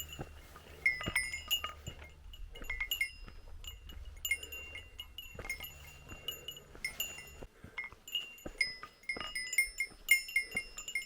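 Bear bell on a hiker's pack jingling as they walk, with clear ringing strikes at irregular intervals and soft footfalls in between.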